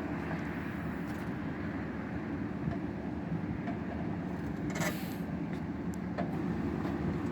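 Backhoe engine running steadily while it lowers a hoisted engine, with a short sharp hiss about five seconds in.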